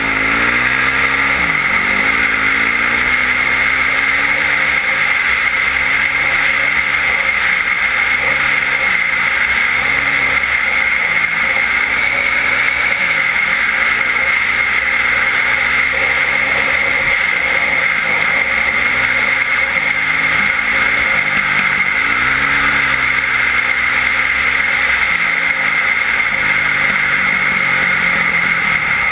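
Yamaha WR450F's single-cylinder four-stroke engine with an Akrapovic exhaust, under way: the revs climb and drop again every second or two as the throttle is worked.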